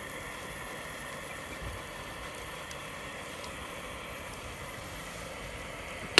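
A vehicle engine idling steadily, with a single sharp click right at the end.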